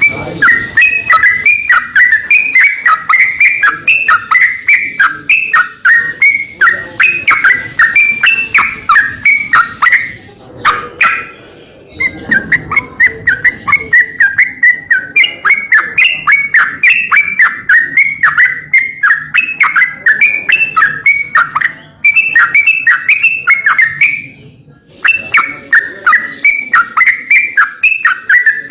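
A crocokan songbird singing a fast, chattering song of rapidly repeated chirps, with short breaks about ten and twenty-four seconds in.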